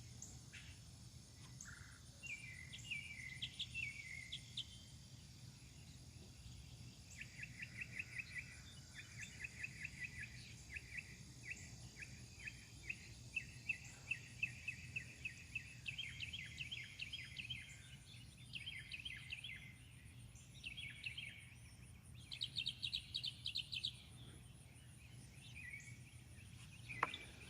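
Songbirds singing in repeated quick chirps and trills, one run after another through most of the stretch, with a higher, faster run a little past the middle. Behind them is a faint steady high insect buzz.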